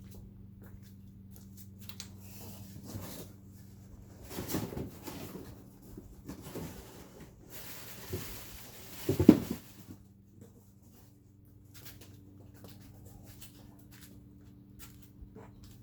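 Hands working over plastic vacuum cleaner parts: scattered clicks and knocks, a few seconds of hissing noise, and a louder thump about nine seconds in. A steady low hum runs underneath.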